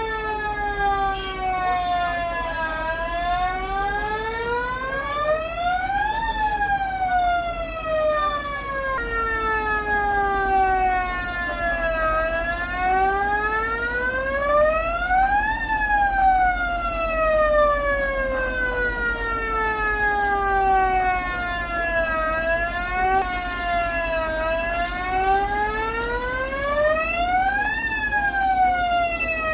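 A wailing siren, its pitch sliding slowly down for about six seconds and then rising more quickly to a peak, a cycle of about ten seconds that peaks three times. The pitch jumps abruptly a couple of times. A steady low hum runs underneath.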